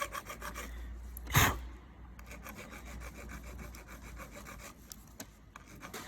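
Hand-rubbing down a part with quick, even abrasive strokes, taking material off so the heated grip will slide on. A single loud knock sounds about a second and a half in.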